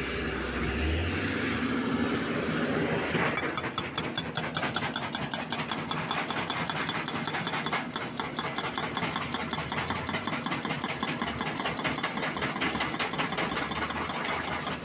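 Hydraulic breaker hammer on a CAT 320C excavator pounding K500 concrete in a rapid, even stream of blows that starts about three and a half seconds in, over the excavator's diesel engine running.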